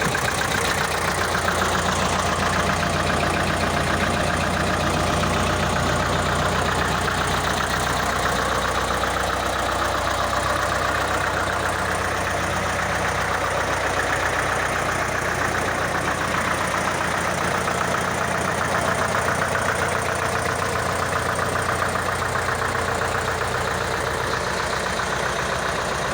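Porsche-Diesel Master tractor's air-cooled four-cylinder diesel engine running steadily at an even speed.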